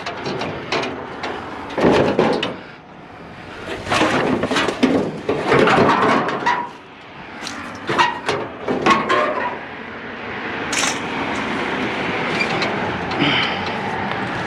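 Scrap metal clanking and scraping in irregular bursts as a heavy, snagging piece of junk is dragged and wrestled off a trailer.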